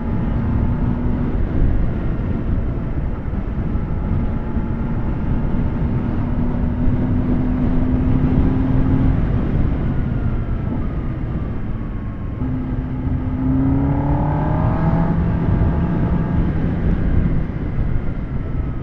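Kawasaki ZX10R's inline-four engine running under way, with steady wind and road noise over it. It holds a steady pitch for most of the time, then revs up about twelve seconds in and again a couple of seconds later.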